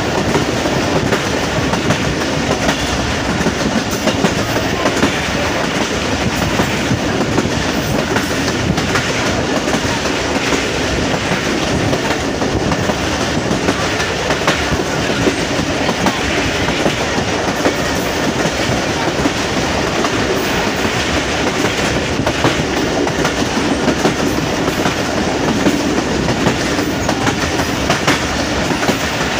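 Subak Raftar Express railcar running along the track: a steady rumble of wheels on rails with faint clicks scattered through it.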